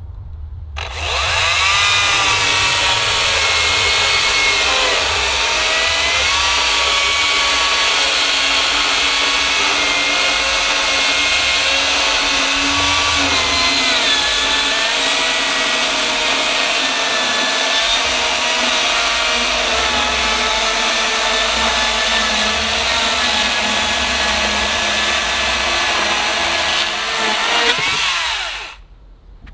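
Makita DUC254Z 18-volt brushless cordless chainsaw cutting through a hardwood board. Its motor and chain start up about a second in and run steadily, the pitch dipping now and then as the chain bites under load, then stop just before the end.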